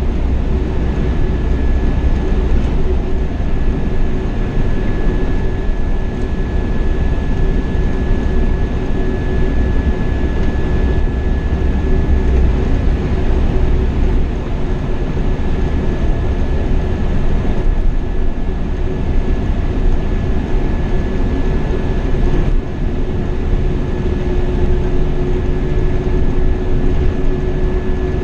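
Scania K420 double-decker coach driving at a steady cruise: continuous engine and road noise with a deep rumble underneath and a thin steady high whine on top.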